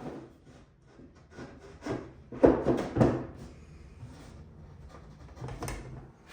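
Wooden drawer box parts being handled during glue-up: scattered soft knocks and rubbing of wood on wood, loudest about two to three seconds in.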